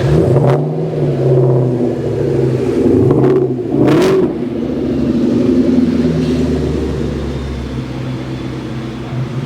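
A car engine running as the car moves slowly, its pitch rising and falling with the throttle. There are short blips of revving about three and four seconds in, then it settles to a quieter run.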